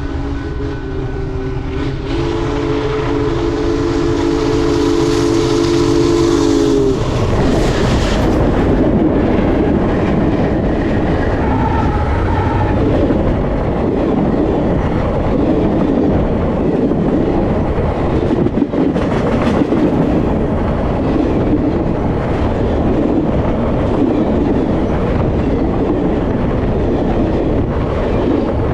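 Union Pacific Big Boy 4014's train passing close by: a whistle chord of several notes sounds and cuts off about seven seconds in, then loud rolling wheels and clickety-clack of the locomotive and cars going by.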